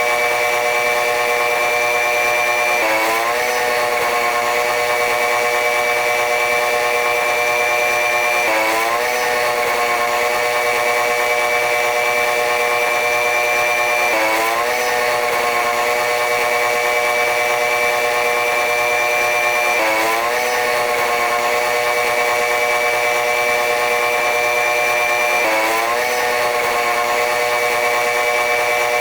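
Running noise of a diesel-electric locomotive-hauled passenger train: a steady din with a whine of several tones that slowly rises in pitch and drops back suddenly, about every five to six seconds.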